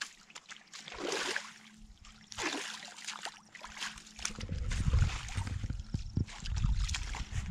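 Water splashing and trickling as hands scoop it up from a shallow pool of water. There are a few short splashes in the first seconds, then a heavy low rumble from about four seconds in.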